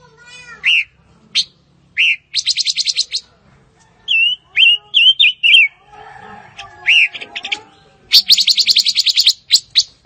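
Silver-eared mesia calling: single short upslurred notes, a run of quick slurred whistles about four seconds in, and two fast dry rattles of rapid repeated notes, one about two and a half seconds in and a longer one near the end.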